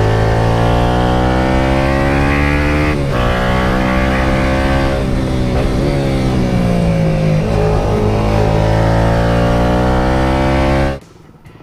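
Yamaha FZ150i's 150 cc single-cylinder engine under way. Its pitch rises, drops at a gear change about three seconds in, rises again, falls as the bike slows past the middle, then rises once more before cutting off suddenly near the end.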